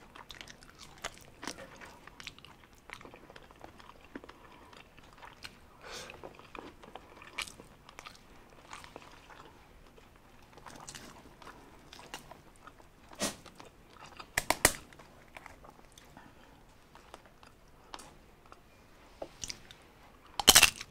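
Close-miked chewing and biting of lechon (whole roast pig): soft wet mouth clicks, with a few sharp crunches, the loudest near the end.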